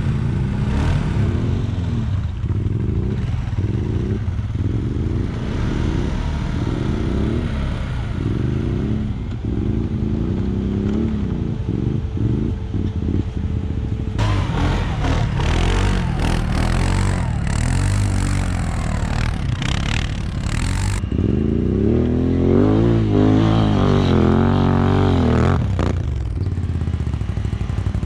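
ATV engine revving up and down in repeated short bursts, then in a longer rev near the end, working under load as a quad pulls a stuck ATV out of a snowy ditch. A rush of hissing noise comes in the middle.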